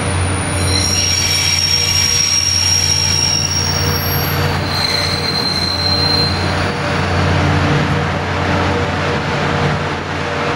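Train running on the rails with a steady low hum, with high metallic squeals about a second in and again around five seconds in.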